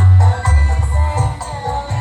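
Music played through a home sound system, with strong bass notes under a melody and jingling percussion.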